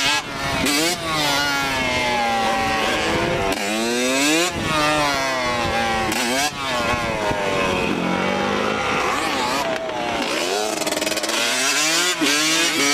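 Several dirt bike and quad engines revving up and down, riding past one after another, their pitch repeatedly rising and falling.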